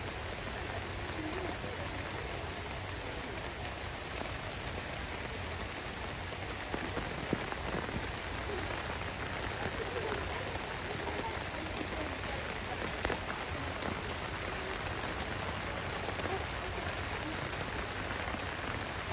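Heavy downpour: steady rain falling on the ground and hard surfaces, with a couple of brief taps.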